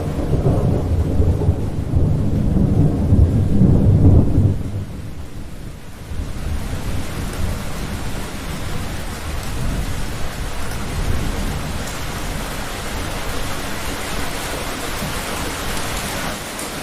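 Thunderstorm: a loud rolling thunderclap rumbles over rain and dies away about four and a half seconds in, leaving steady heavy rain.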